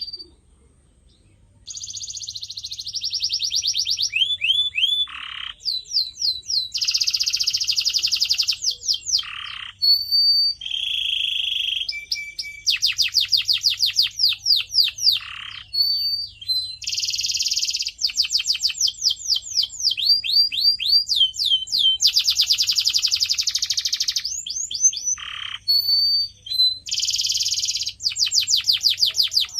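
A canary singing a long run of song: rapid trills of quick repeated chirps, buzzy rolls and short high whistles, strung together in phrases with brief pauses. The song begins about two seconds in.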